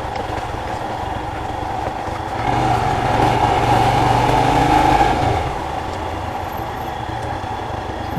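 Royal Enfield Himalayan motorcycle engine running as the bike is ridden, growing louder for a few seconds midway and then easing back.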